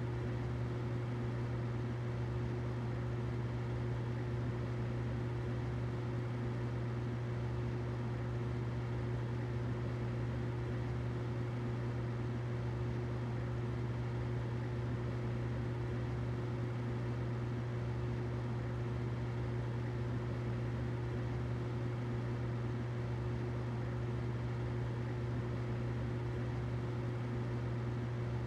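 Humidifier running steadily: a constant low hum with a fainter higher tone over a soft even hiss, unchanging throughout.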